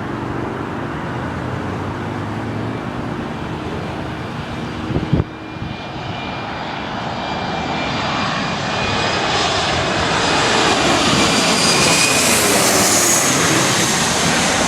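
Jet airliner passing low overhead: its engine roar builds over several seconds to a loud peak near the end, with high turbine whine tones that slowly fall in pitch as it goes by. A single short knock comes about five seconds in.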